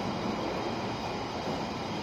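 Steady running noise inside a London Underground Piccadilly line carriage as the train travels: an even rumble and hiss of wheels on rails and car body.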